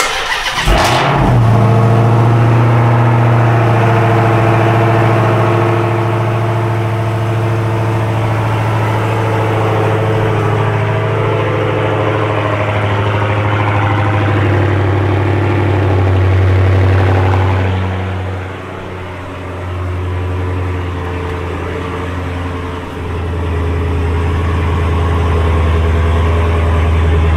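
Cold start of a Dodge Charger SRT Hellcat's supercharged 6.2-litre HEMI V8: it cranks and fires with a short loud burst, then runs at a loud, steady idle. About two-thirds of the way through the idle dips and settles a little lower.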